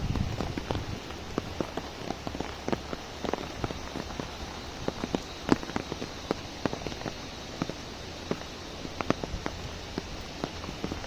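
Heavy rain hitting an umbrella: a steady hiss of rainfall with many irregular sharp drop hits.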